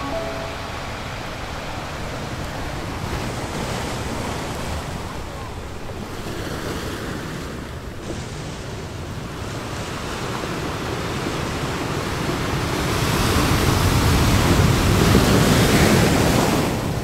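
Ocean surf and wind noise: a steady rush that swells louder about thirteen seconds in and eases off near the end.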